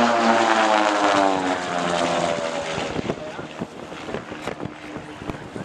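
Van's RV-8 propeller aircraft flying past, its engine note dropping in pitch as it passes and fading away about three seconds in.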